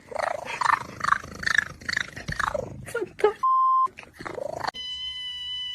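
A cat vocalising in irregular, agitated bursts. A short censor bleep cuts in about three and a half seconds in. Near the end a steady, high whine with several even tones begins.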